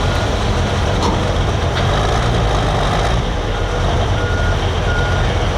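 Heavy diesel engine running steadily, with a vehicle's backup alarm beeping a few times in the second half.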